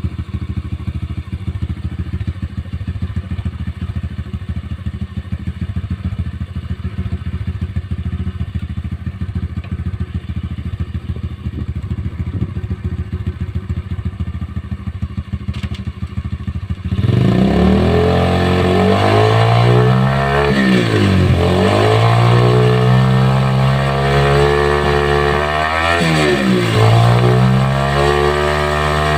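Pit bike engine idling with an even pulse, then opened up to high revs about two-thirds of the way in and held there, the rear wheel and new chain turning freely on the stand. The revs dip briefly twice and climb back.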